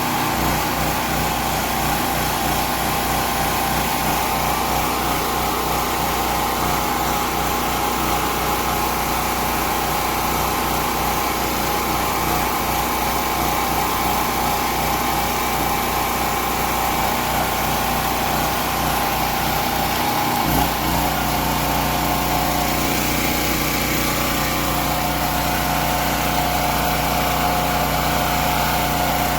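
Predator 4000 generator's 212cc single-cylinder engine running steadily and loudly. About two-thirds of the way through, its low note shifts suddenly, with a brief bump in loudness, and then it runs steadily again.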